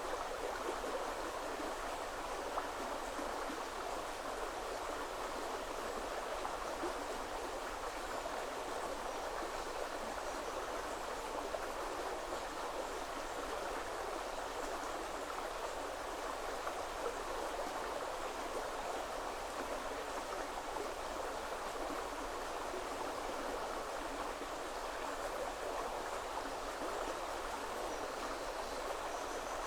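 River water flowing and babbling over stones, a steady even rush.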